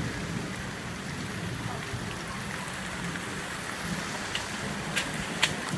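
Steady rain falling after a heavy storm has eased, with a couple of sharp taps near the end.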